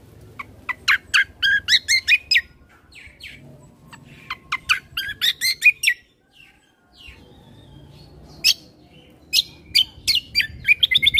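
Kecial kombo (cucak kombo) songbird singing in bursts of rapid, sharp chirps, about five notes a second, in three phrases with a lone note between the second and third.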